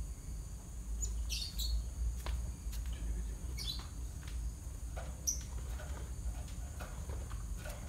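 Java sparrow chirping: a few short, high calls spaced a couple of seconds apart, with faint clicks and a steady low hum behind them.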